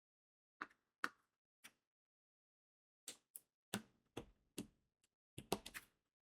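Small sharp clicks of crystal diamond-painting beads being pressed onto the adhesive canvas with an applicator pen. Three spaced clicks come first, then after a pause of over a second a quicker run of about ten clicks.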